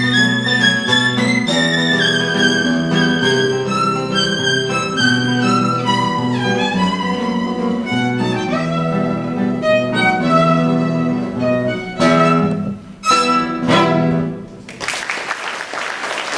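Violin and guitar duo playing a waltz-time dance, the bowed violin melody over plucked guitar bass notes, ending on a few sharp accented chords about twelve seconds in. Audience applause follows near the end.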